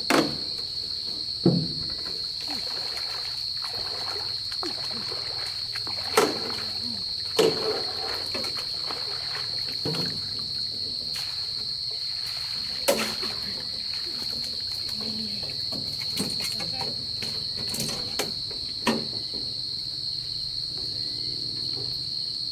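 Steady high-pitched drone of insects, with about seven short, sharp thumps scattered through it.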